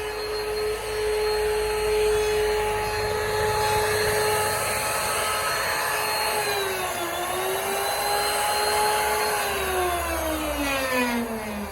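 Electric wood router running at full speed with a high steady whine and cutting hiss. Its pitch dips briefly about two-thirds of the way in as the bit takes load. Near the end it is switched off and winds down with a falling whine.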